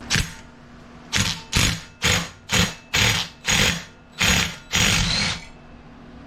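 Hand ratchet wrench clicking through about nine quick strokes, a little over two a second, then stopping: undoing the cylinder head bolts of an MTD-built 265-SU OHV small engine.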